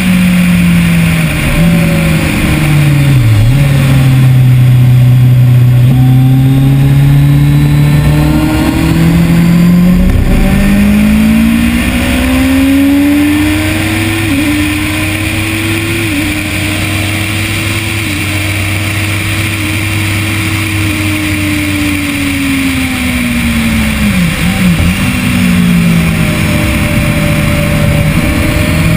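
2010 Kawasaki ZX-10R's inline-four engine being ridden hard on track: the pitch drops under braking a few seconds in, climbs steadily from about ten seconds in with brief dips at gear changes, holds high, then falls again with quick blips near the end as it shifts down. Steady wind rush runs underneath.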